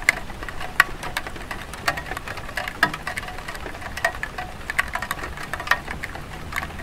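Light rain on a tile roof: irregular drops tapping, a few a second, some louder than others, over a soft steady hiss.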